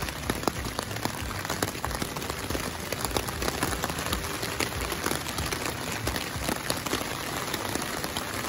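Rain pattering on a tent's fabric, heard from inside the tent as a steady dense hiss of many small irregular drop ticks.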